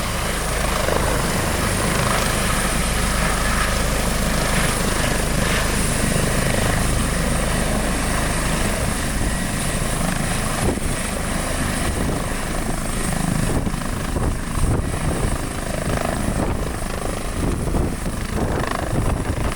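Helicopter running: a steady rotor and engine noise with a thin, high steady whine above it.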